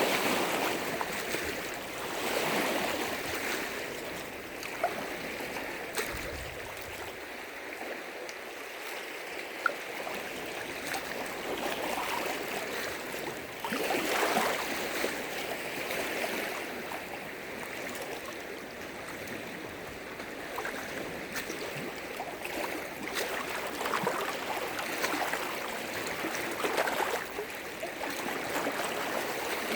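Freshwater lake waves washing against the shore, swelling and ebbing every couple of seconds, with two short sharp ticks in the first ten seconds.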